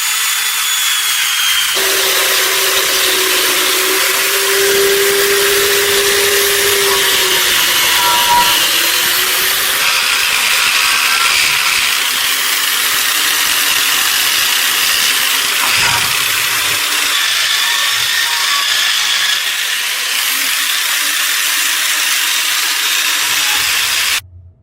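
Power tool abrading rusty metal: a steady, harsh grinding hiss over a whining motor tone, in several edited stretches, cutting off suddenly near the end.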